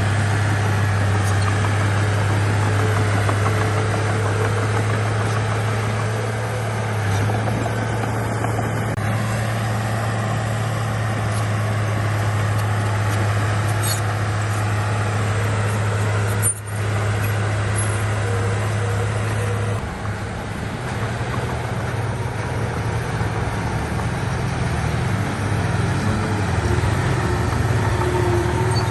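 Heavy diesel engine of earthmoving machinery running steadily with a low drone; its note changes about two-thirds of the way through, as if the load or throttle shifts.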